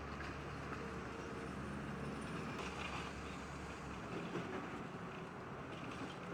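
Diesel engine of heavy demolition equipment running with a low steady rumble that drops away about four seconds in, with a few short knocks.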